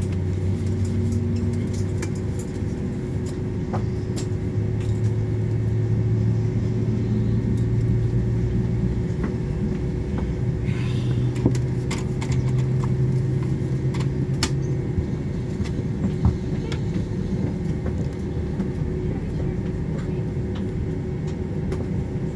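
Steady engine hum and rumble inside an airliner cabin on the ground, just before take-off, with scattered small clicks and knocks.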